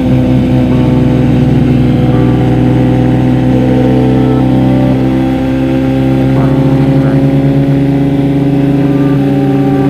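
Kawasaki Z900's inline-four engine running at steady revs while the motorcycle is ridden, holding an even pitch with a brief slight dip in loudness about halfway through.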